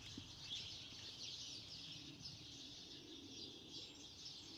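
Faint outdoor background of many small birds chirping and twittering steadily.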